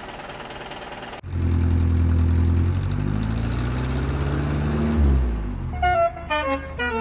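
Truck engine sound that starts abruptly about a second in and runs loud and low, its pitch rising and falling as if revving. Near the end a tune of short notes starts over it.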